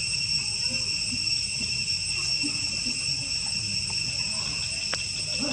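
Steady high-pitched insect chorus holding an unbroken drone, over a low rumble, with one faint click near the end.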